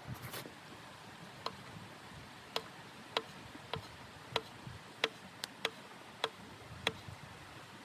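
Wood stove fire giving about ten sharp, separate ticks and pops at uneven intervals, each a short click with a brief ringing tail.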